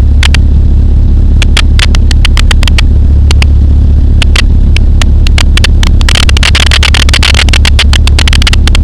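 Pulsar XP microlight aircraft's engine droning steadily in flight, heard from the cockpit as a loud, constant low hum. Sharp crackling clicks come throughout, and a hiss thickens from about six seconds in.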